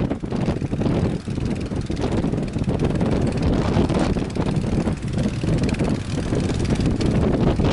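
Strong wind buffeting the microphone: a loud, gusty low rumble that rises and falls unevenly throughout.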